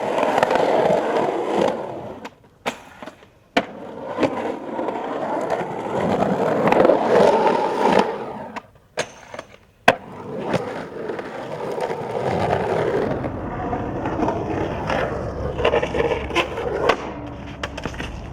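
Skateboard rolling in several passes, its wheels rumbling louder and softer, broken by a few sharp cracks of the board striking the ground and a quick run of clatters near the end.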